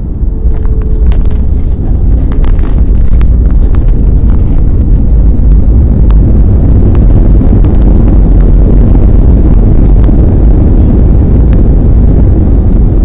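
Aeroplane landing: a loud, steady, deep rumbling roar that builds over the first two seconds and then holds, with scattered clicks through it.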